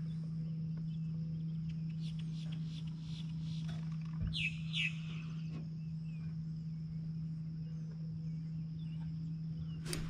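Two quick downward-sliding bird chirps about four seconds in, after a short run of faint ticking calls, over a steady low hum. Right at the end comes a sudden burst of handling noise as the fishing rod is swung up.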